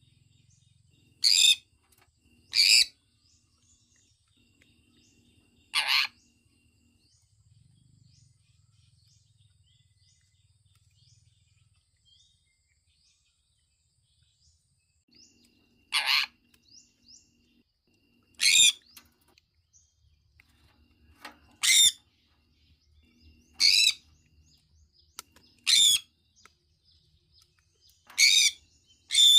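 Sun conure calling: short, loud, sharp calls, a few at first, then a quiet spell of about ten seconds with only faint chirps, then a run of calls every two to three seconds.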